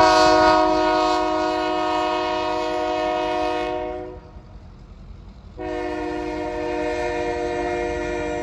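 A train horn sounding two long blasts, a steady chord of several pitches with a short break between them.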